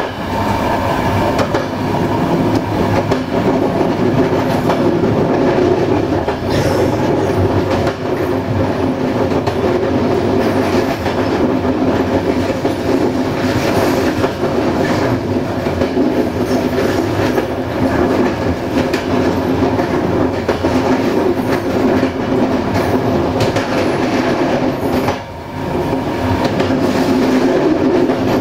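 Train wheels rolling on the track as heard from inside a passenger coach at speed: a steady rumble and roar, broken by scattered clicks over rail joints. The noise drops briefly near the end.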